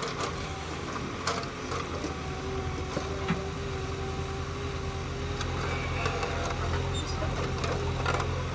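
Diesel engine of heavy earthmoving machinery running steadily at a constant speed, with a few light knocks over it.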